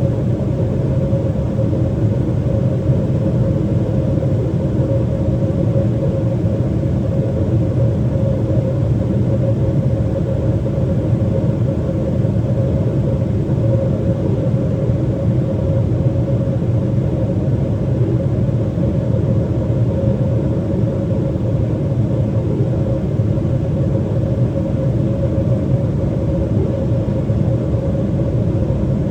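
Steady cabin noise inside a Boeing 777-300ER in descent: a constant low rumble of airflow and engine noise, with a steady mid-pitched hum on top.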